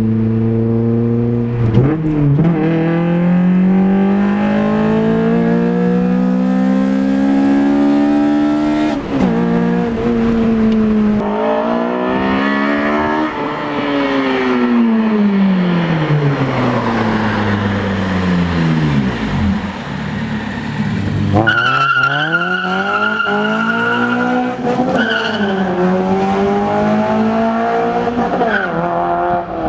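Car engine revving hard and pulling through the gears, its pitch climbing and then dropping back at each shift, followed by a long fall in pitch as it slows. A high, steady squeal joins in about two-thirds of the way through and lasts a few seconds.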